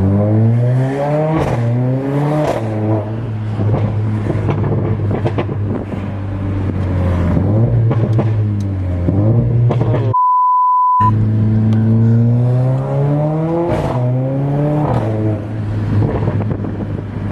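Mercedes-AMG CLA 45's inline-four accelerating hard through the gears, the engine note climbing and then dropping at each shift, with sharp exhaust pops and crackles. About ten seconds in, the sound cuts out for under a second and is replaced by a steady censor beep.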